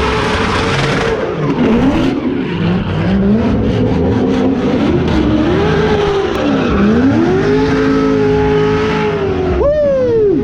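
Magnuson-supercharged LS V8 of a drift car, revved up and down again and again at full throttle while the tyres skid and squeal. Near the end it gives one sharp rev and the pitch falls away.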